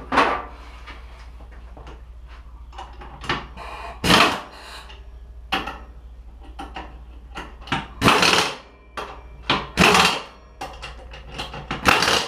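Metal parts and hand tools knocking and clanking in a series of irregular strikes, the loudest about four seconds in and again near the middle and end, over a steady low hum.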